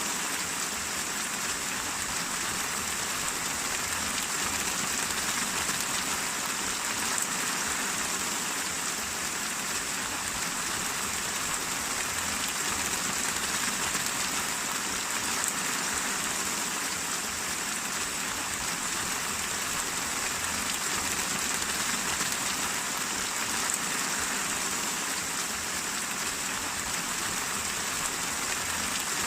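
Steady rain falling, a continuous even hiss of drops on a surface with no let-up.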